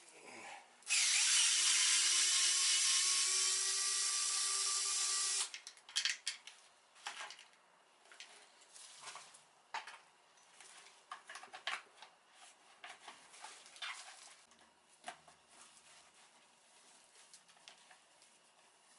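Electric drill-driver running for about four and a half seconds, its motor pitch rising slightly, then stopping; scattered clicks and knocks of tools and parts being handled follow.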